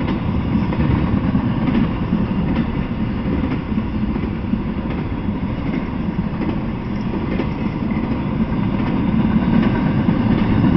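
Intermodal freight train rolling past, flatcars carrying highway trailers: a steady rumble of steel wheels on the rails with occasional faint clicks.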